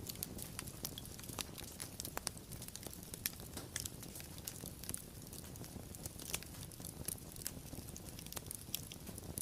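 Wood fire crackling: irregular sharp pops and snaps over a low steady rumble of burning.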